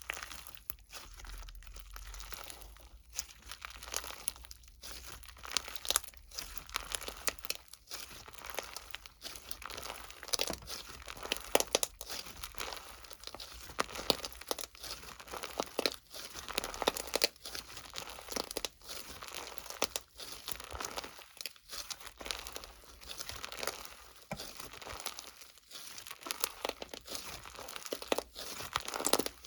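Close-up rustling and crinkling of paper or plastic being handled, with frequent small tearing sounds in a continuous irregular crackle.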